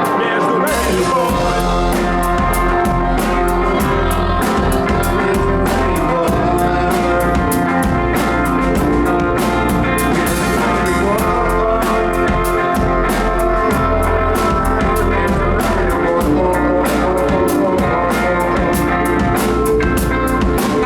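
Live rock band playing a song: electric guitar, bass and drums with steady, regular cymbal and snare hits, and a singer's voice over them.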